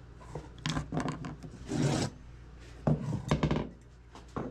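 A hard tool scraping and rasping against an old lantern in several short strokes, working a punch hole into it for a bird feeder's seed opening.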